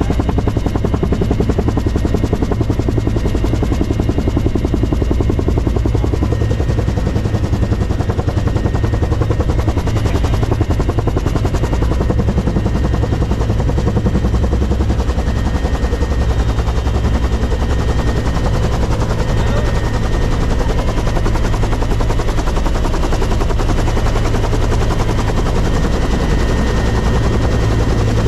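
Helicopter running close by, a steady fast beat of the rotor blades over a low drone, with a faint steady whine.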